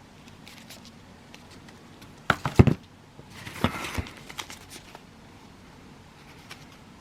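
Fireworks being handled from their box: a few hard knocks as cardboard firework items are set down on a surface, then a second or so of crinkling packaging.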